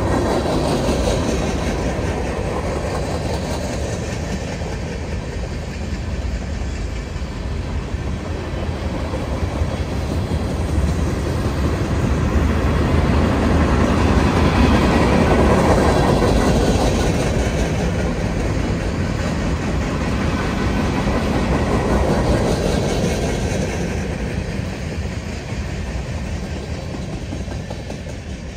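Freight train cars, covered hoppers and boxcars, rolling past with a steady rumble of wheels on rail, fading over the last few seconds as the end of the train goes by.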